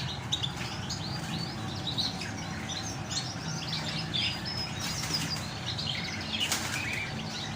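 Many caged birds chirping at once in a dense, overlapping chorus of short high calls.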